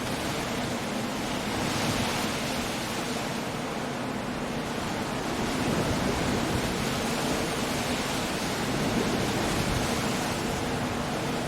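Storm surf on a rocky coast with wind: a steady wash of noise that swells now and then.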